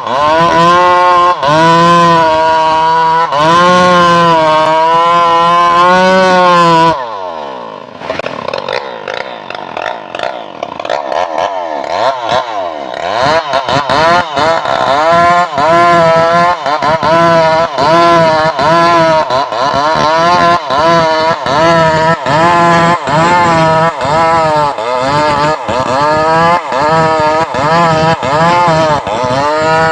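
Stihl MS 381 two-stroke chainsaw running at high revs, its pitch wavering. About seven seconds in it drops suddenly to a lower, uneven run for several seconds, then is revved up and down over and over, a little more than once a second.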